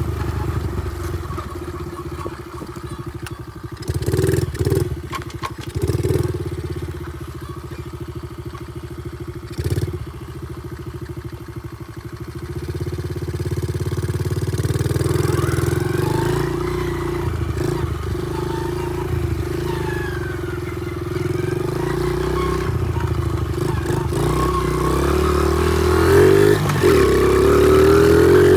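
Small pit bike engine running while being ridden, with a few knocks in the first third. From about halfway it gets louder, the revs rising and falling as the throttle is worked.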